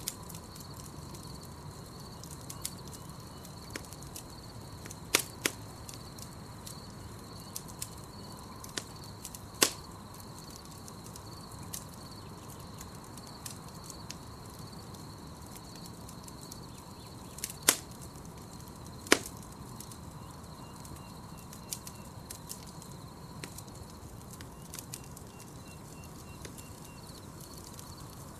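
Campfire crackling, with scattered sharp pops, a few much louder than the rest, over a steady high chirring of night insects.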